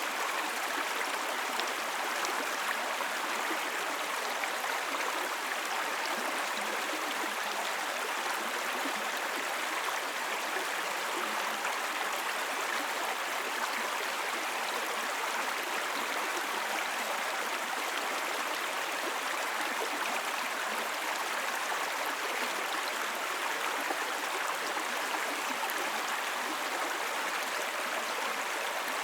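Small brook babbling steadily over stones, an even rush of flowing water.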